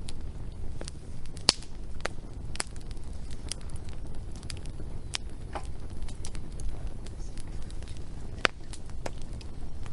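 Wood fire crackling: sharp irregular pops and snaps, the loudest about a second and a half in and again near the end, over a steady low rumble.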